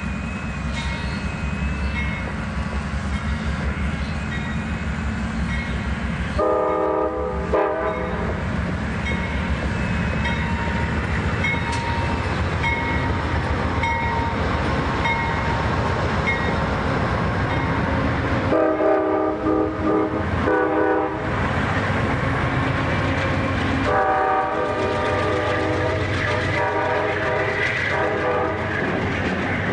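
Amtrak passenger train, led by GE P42DC locomotives, passing with a steady rumble and rattle of wheels on rail. The locomotive horn sounds a chord of several tones in separate blasts: a pair about a quarter of the way in, a few more past the middle, and a longer series near the end.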